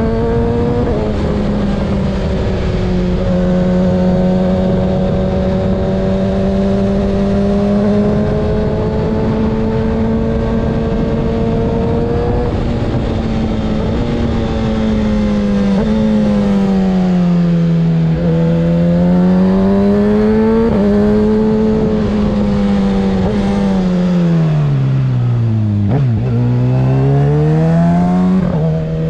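Kawasaki ZX-6R's 636 cc inline-four running through a Graves aftermarket exhaust, under way. The engine holds a nearly steady pitch for about the first half, then rises and falls with the throttle several times, drops lowest a few seconds before the end and revs quickly back up.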